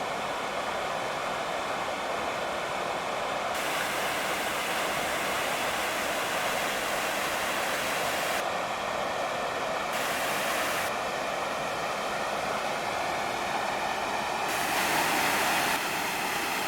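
Small waterfall splashing steadily into a pool, a continuous rush of falling water. Its hiss turns abruptly brighter or duller several times.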